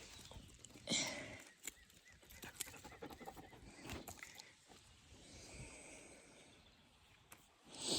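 Faint footsteps and rustling through woodland undergrowth, with scattered clicks like snapping twigs and a louder rustle about a second in.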